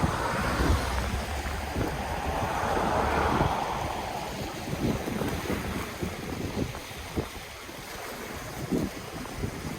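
Ocean waves washing on the shore, one surge swelling over the first few seconds and then receding, with fizzing crackles as the water draws back and low wind rumble on the microphone.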